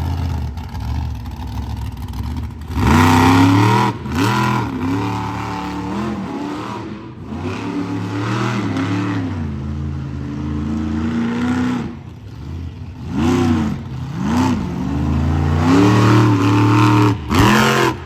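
Monster truck engine revving hard in repeated surges, its pitch climbing and falling again and again, loudest in several bursts near the middle and toward the end.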